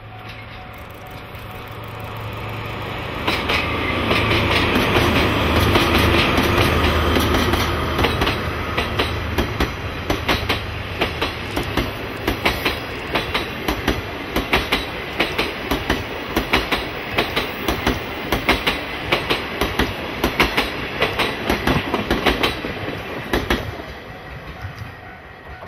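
Two DE10 diesel-hydraulic locomotives running in tandem approach and pass, their engines a steady low drone that is loudest about four to eight seconds in. Then the 24-series sleeper coaches roll by with a rapid clickety-clack of wheels over the rail joints, which fades out near the end.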